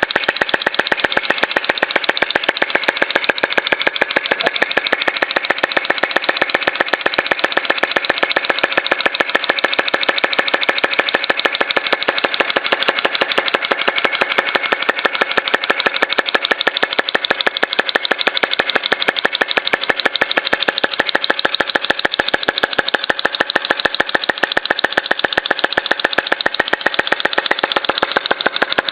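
Small homemade flame-breathing model engine running steadily, making a rapid, even clicking beat with little bass.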